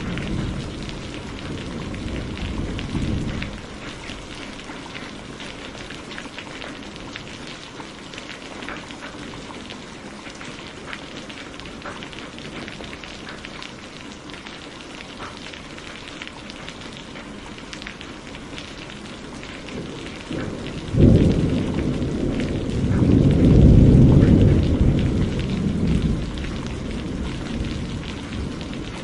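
Steady rain falling, with thunder: a low rumble dies away in the first few seconds, then a sudden crack about three-quarters of the way through swells into a long rolling rumble before fading.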